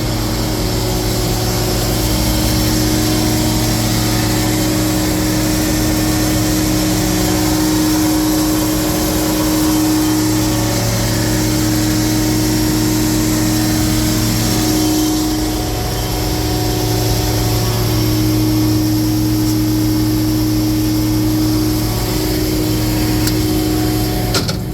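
Cummins diesel engine of a Freightliner M2 truck running steadily at idle, a constant low hum with a steady higher tone on top.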